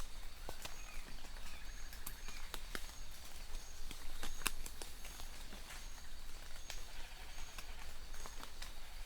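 Rain falling, with scattered drops ticking sharply close by. A short high chirp repeats evenly, a little more than once a second.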